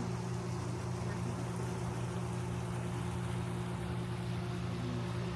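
Steady low mechanical hum with a few fixed low tones over a light hiss, holding even throughout.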